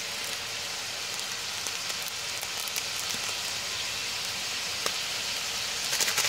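Chicken frying in a pan, sizzling steadily, with a few faint clicks near the end.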